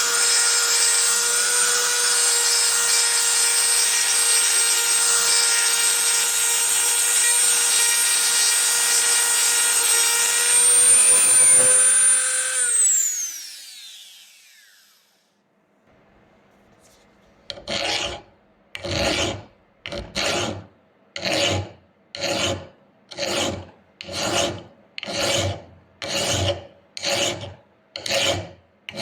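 A power tool's motor runs steadily with a high whine, then is switched off and winds down in falling pitch about 13 seconds in. After a short pause, hand strokes of filing or sanding rasp back and forth in an even rhythm, a little more than one stroke a second.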